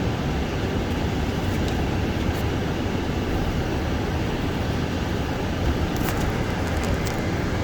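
Car driving on a snow-covered road: steady tyre and road noise heard from inside the car, with a few faint clicks about six seconds in.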